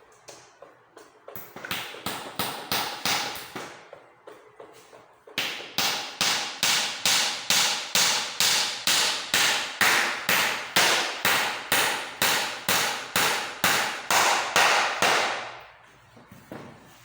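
Hammer striking repeatedly while a chair is being repaired. A few lighter taps come first, then a long run of steady, loud blows at about three a second that trail off near the end.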